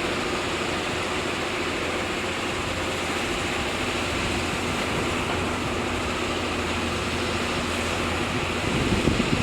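Heavy construction machinery's diesel engine running steadily, a constant drone with a faint hum, growing a little rougher and louder near the end.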